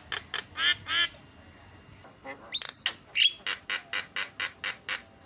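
Javan myna calling: a few harsh squawks in the first second, a rising whistle about halfway, then a quick run of short sharp chattering notes, about five a second.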